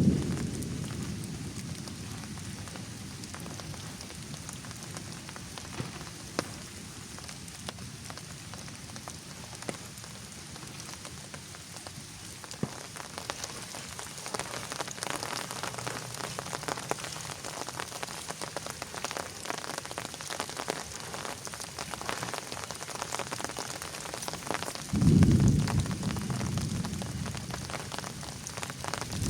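Rain falling steadily, with many single drops striking close by. A roll of thunder dies away at the start, and another low rumble of thunder breaks in near the end and fades.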